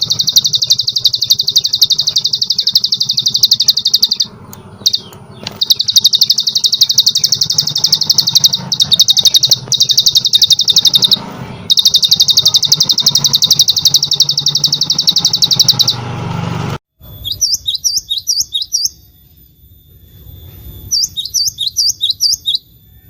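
Small songbird giving a long, rapid, high trill in bouts of several seconds with brief pauses. About 17 seconds in it cuts to a different bird song: two short runs of quick, downward-sweeping chirps.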